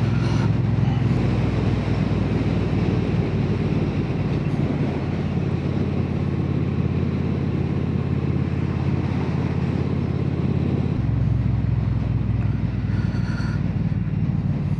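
Triumph Bonneville T120's parallel-twin engine running on the move through Hitchcock slip-on exhausts, heard from inside the helmet along with wind rush. The engine note shifts about three-quarters of the way through.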